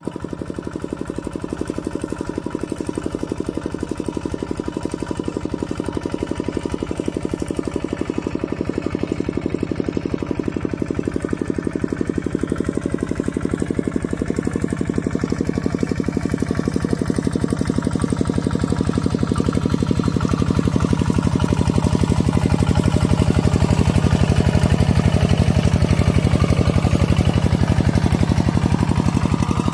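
Mini tractor engine running steadily with a fast, even chugging beat. It grows somewhat louder past the middle.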